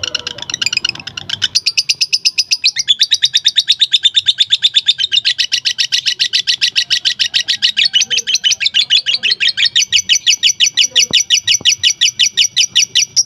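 Lovebird giving its long 'ngekek' song: a fast, unbroken string of sharp chattering notes, many each second. The notes shift to a lower-starting pattern about three seconds in, and the song stops suddenly right at the end.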